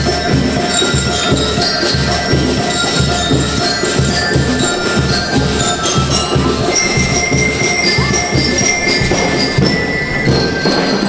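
A school rhythm band playing: drums beat a steady march rhythm, about three beats a second, under bell lyres ringing out the melody.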